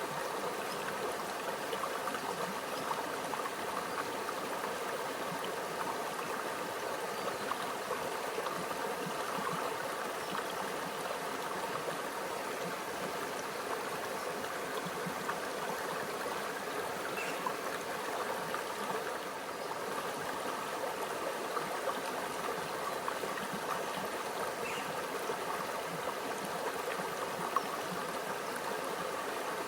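A small stream flowing and gurgling steadily over rocks, the running water holding an even level throughout.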